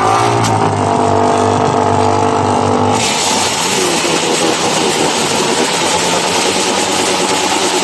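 Motorcycle engine revved hard and held at high revs, loud. About three seconds in, the sound changes abruptly to a rougher, noisier engine run.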